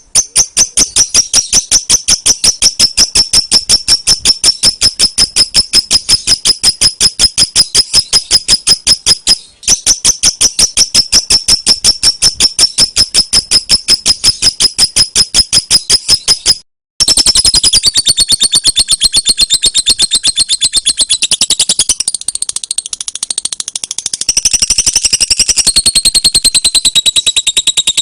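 Lovebird ngekek: a long, rapid run of sharp, high-pitched chirps repeated many times a second, loud and unbroken except for two brief breaks, the later part shifting in pitch.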